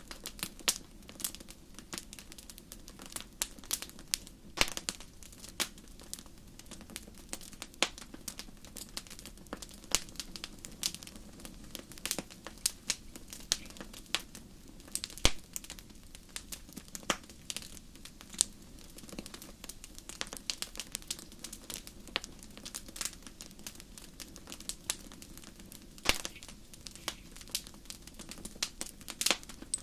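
Fireplace fire crackling: frequent, irregular sharp pops and snaps over a low, steady rush of the flames.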